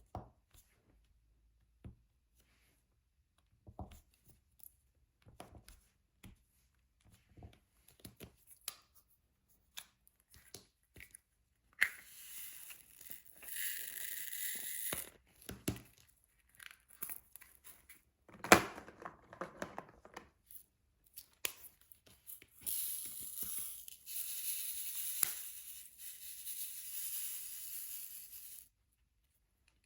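Diamond painting at work: light scattered ticks as resin drills are picked up and pressed onto the canvas. About twelve seconds in, and again from about twenty-two seconds to near the end, comes a longer rasping sound of plastic being peeled or torn.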